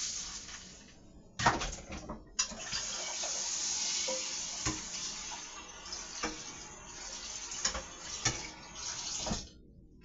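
Kitchen tap running into a sink, turned on and off twice, with several knocks of dishes or pans being handled.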